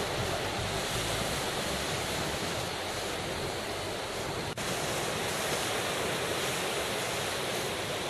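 Ocean surf washing steadily onto a sandy beach, with a low rumble of wind on the microphone. The sound cuts out for an instant about four and a half seconds in, then resumes.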